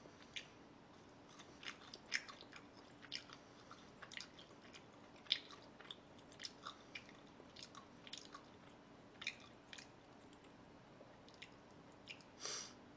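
A person chewing food close to the microphone: soft, irregular wet mouth clicks scattered through, with a short breathy sound near the end.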